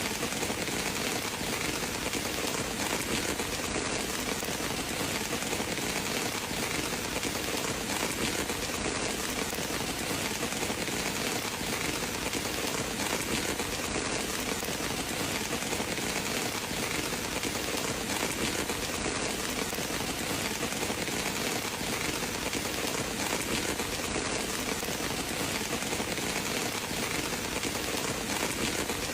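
Steady rain falling on a surface: an even, unbroken hiss with no lulls or swells.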